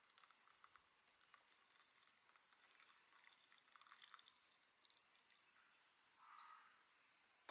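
Near silence with faint scattered small clicks, and a brief soft rush about six seconds in.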